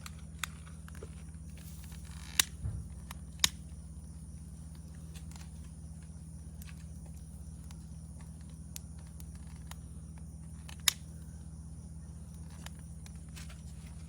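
Wood campfire crackling, with a few sharp pops and softer ticks, over steady chirring insects and a low steady hum.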